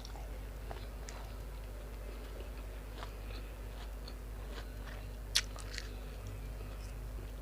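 Close-up eating sounds: chewing and biting on grilled pork nam tok and sticky rice, with small wet clicks of the mouth and a sharper click about five seconds in. A steady low hum runs underneath.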